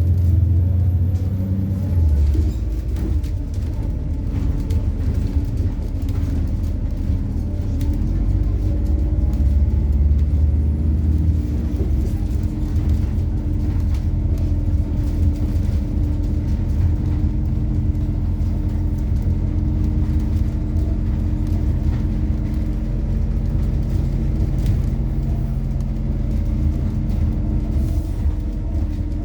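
Methane-fuelled MAZ-103 city bus heard from inside during a ride: a steady engine rumble with road noise, and a brief rise in engine pitch in the first couple of seconds as it pulls away or picks up speed.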